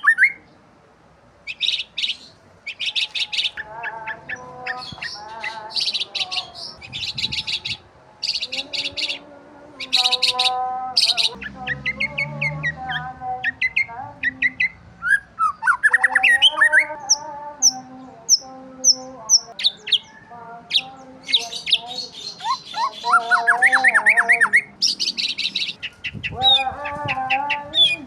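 Several birds chirping and calling together: fast strings of high, repeated chirps mixed with lower warbling calls and quick rising whistles.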